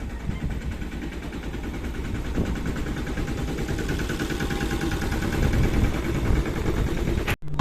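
Train running along the track, heard on board: a steady low rumble with engine noise that grows slightly louder, then cuts off suddenly near the end.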